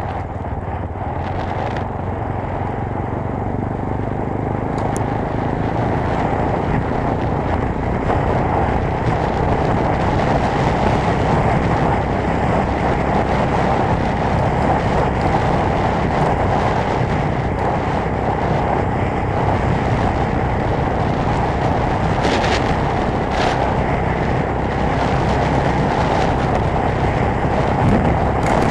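GX-R 250S motorcycle engine running hard at speed, with a dense rush of wind noise. The sound grows slowly louder through the first ten seconds or so, then holds steady.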